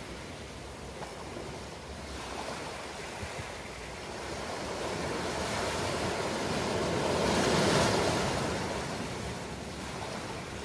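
Ocean waves washing on a shore as a steady surf hiss. One wave swells to a peak about three-quarters of the way through, then falls back.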